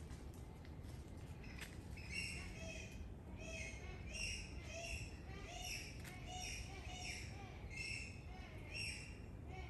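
A bird calling over and over, about two short calls a second, starting about two seconds in. A fainter, lower call repeats alongside it.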